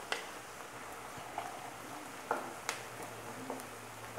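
Faint sizzle of diced carrots and chopped onions frying in a nonstick pan, with a few sharp clicks of a wooden spatula against the pan as they are stirred.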